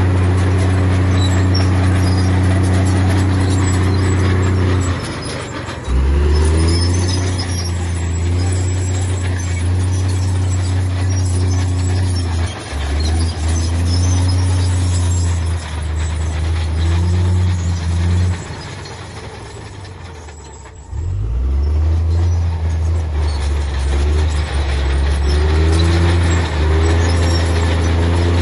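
Heavy diesel engine of earthmoving machinery working under load, its pitch rising and falling as the throttle changes. It drops off briefly about five seconds in, then falls away for a few seconds near twenty seconds in before picking up sharply again.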